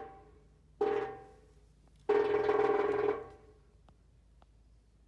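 A chimney sounding in gusts of wind, a buzzing, droning tone driven by the draft. It comes in sudden bursts: a short one about a second in and a longer one of about a second shortly after, each dying away.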